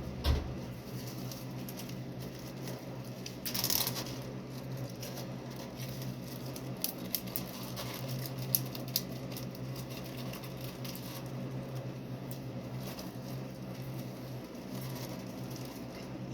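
Scattered light clicks and taps over a steady low hum, with a brief rustle about three and a half seconds in.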